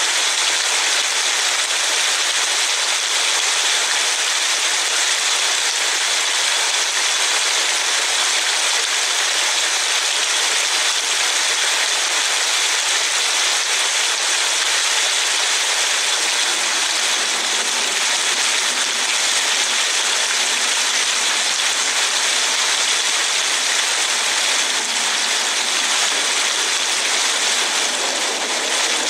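Steady hiss of rain and tyres on a wet road, heard from inside a moving car.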